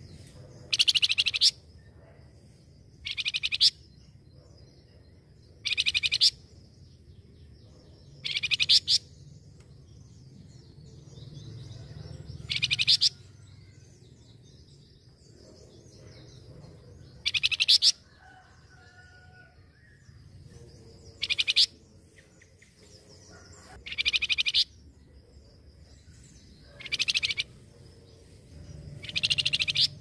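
Flamboyan babbler singing: about ten short, loud bursts of rapid, high chattering notes, each under a second long and coming every two to four seconds.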